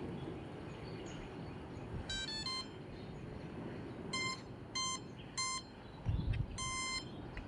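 An RC boat's brushless motor sounding its 40-amp ESC's power-up tones: a quick rising run of three notes, then three short even beeps for the 3-cell battery, then one longer beep as the controller arms. A dull knock comes just before the long beep.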